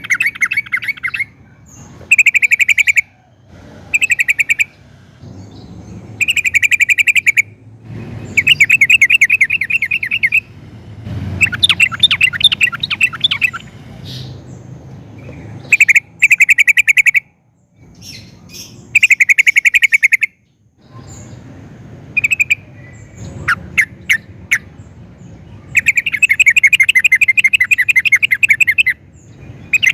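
Yellow-vented bulbul (trucukan) singing: loud, bubbly chattering phrases about a second long, repeated again and again with short pauses between them.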